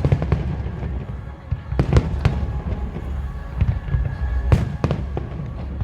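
Fireworks display with aerial shells bursting: about five sharp bangs, two close together near 2 s and two more near 4.5 s, over a continuous low rumble of distant explosions.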